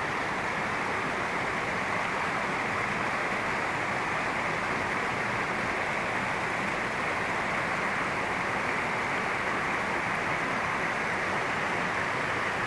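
Steady rushing of flowing stream water, an even noise that holds without change.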